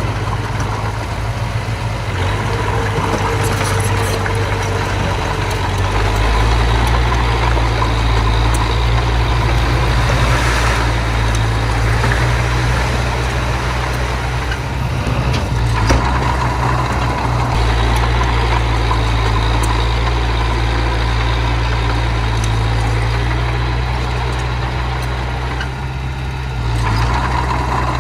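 Heavy machinery's diesel engine running steadily with a deep, low drone. It grows louder about six seconds in and eases off briefly near the end.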